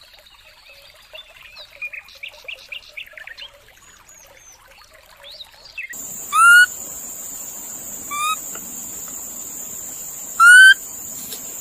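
Animal calls: faint, scattered chirping, then, after an abrupt change, three loud, short, upward-sweeping calls over a steady high-pitched hiss.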